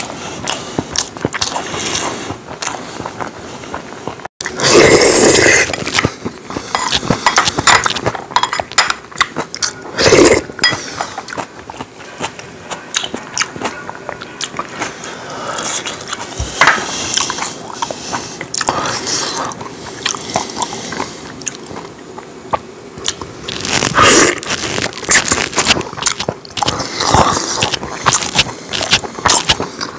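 Close-miked chewing and eating of braised spicy chicken: a continuous run of wet mouth clicks and crackles, with a few louder noises about five, ten and twenty-four seconds in.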